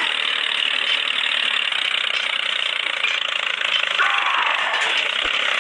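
Small geared motor of a mini model tractor running with a steady mechanical whir.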